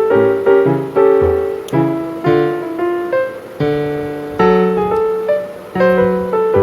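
Background piano music: a calm melody of single notes and chords, each note struck and fading away.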